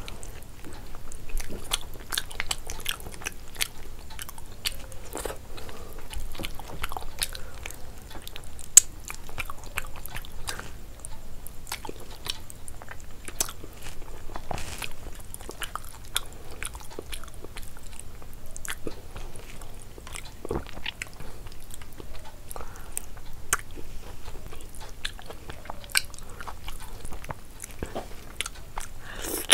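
Close-miked chewing and crunching of a person eating fish curry and rice by hand, full of irregular wet smacks and sharp clicks, with one louder click about nine seconds in.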